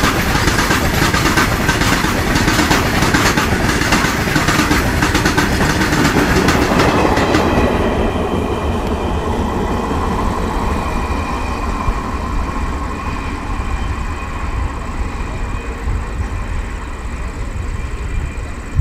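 Freight train of blue BCNHL covered wagons passing close by at speed, wheels clattering in a rapid rhythm. About seven seconds in the last wagons and brake van go by, and the sound drops to a fainter rumble with thin steady whines as the train draws away.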